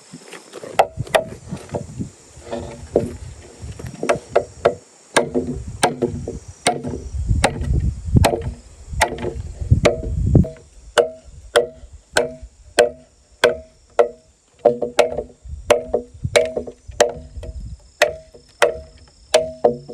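Bamboo being chopped with a blade: a steady run of sharp strikes, about one and a half a second, each with a short hollow ring from the bamboo.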